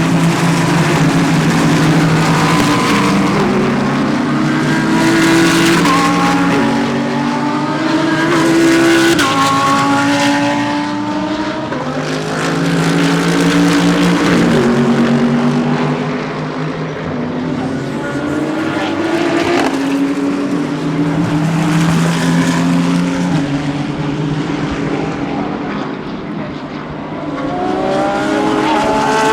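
GT3 race cars accelerating hard, several in a row, their engines climbing in pitch and dropping back at each upshift as they work up through the gears.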